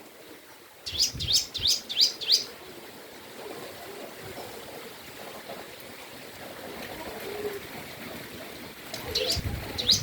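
A bird chirping: a quick run of five or six sharp, high, falling notes about a second in, then another short run near the end.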